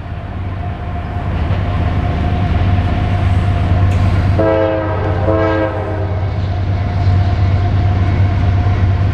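CSX freight train's diesel locomotives rumbling louder as the train approaches, with two short blasts of the locomotive's air horn about halfway through.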